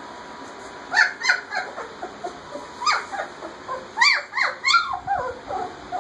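Two-week-old German Shepherd puppies whimpering and squealing in short high-pitched cries: a few about a second in, another near three seconds, and a cluster between four and five seconds.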